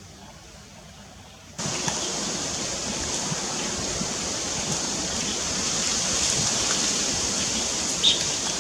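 Strong monsoon wind rushing through trees, a loud steady noise of blowing leaves that starts abruptly about a second and a half in.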